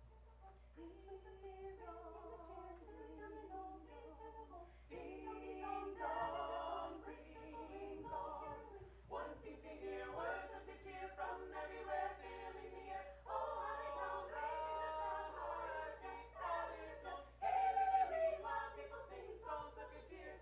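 A group of voices singing a cappella, without instruments, growing fuller and louder about five seconds in.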